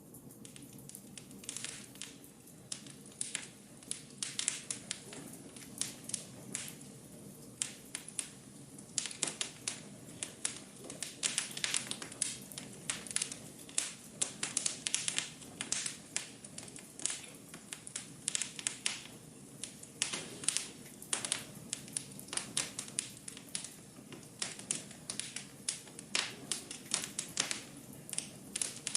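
Wood fire in a fireplace, crackling and popping at irregular intervals over a low steady rumble of flame.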